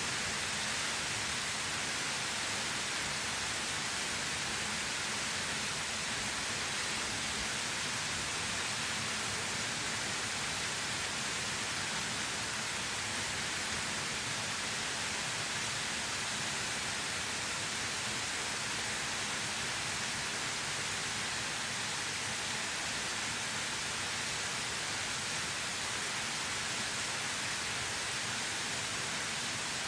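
A waterfall: a steady, even rush of falling water with a bright hiss.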